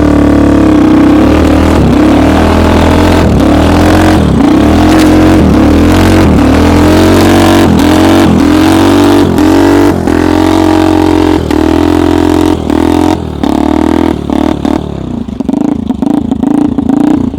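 Homemade snowmobile's engine running at high revs under heavy load in deep snow, its note dipping and recovering about one and a half times a second, with clattering from the machine. Near the end the engine drops back and runs unevenly.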